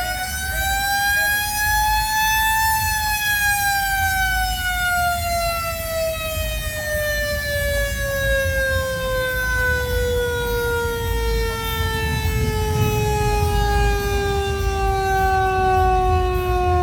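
A mechanical siren winds up for about three seconds, then slowly winds down in one long falling wail as its rotor coasts. A low, steady rumble runs underneath.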